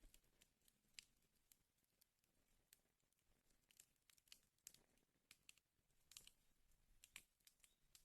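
Wood fire crackling faintly, with irregular sharp snaps and pops from the burning logs over a soft hiss.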